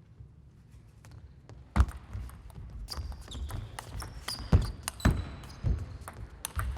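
Sharp thuds and clicks from table tennis players on the court, with brief shoe squeaks on the floor, echoing in a large hall. Quiet at first; the knocks start about two seconds in and come at an uneven pace.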